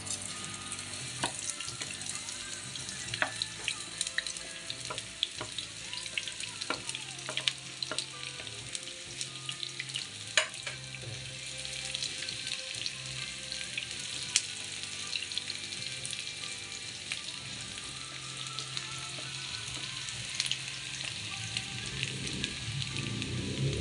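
Garlic and onion sautéing in hot oil in a pan: a steady sizzle broken by frequent sharp pops and crackles.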